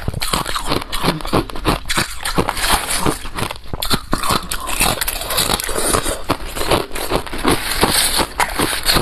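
Close-miked crunching of balloon ice being bitten and chewed, a fast, dense run of crisp cracks and crunches.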